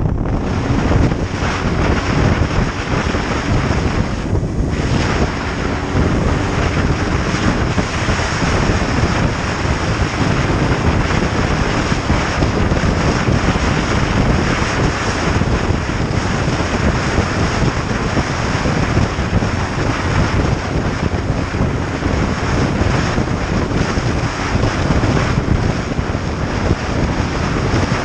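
Steady wind rushing over the microphone of a moving motorcycle, with the motorcycle's engine and road noise beneath it.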